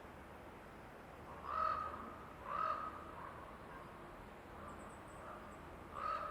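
A bird calling in a forest: two short, harsh calls about a second apart, then a third near the end, over a steady background hiss.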